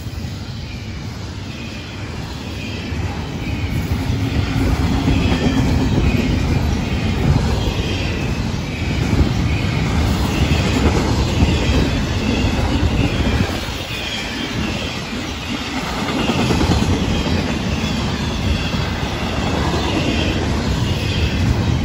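Double-stack intermodal freight cars rolling past at speed: steel wheels clattering over the rail with a steady heavy rumble. It grows louder about three seconds in and dips briefly past the middle.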